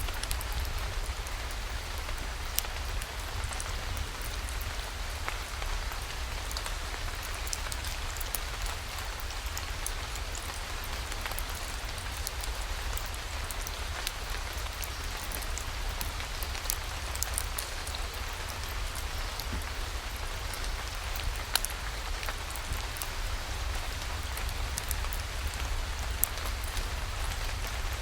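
Steady rain falling, with scattered sharp ticks of single drops throughout and a low steady rumble underneath.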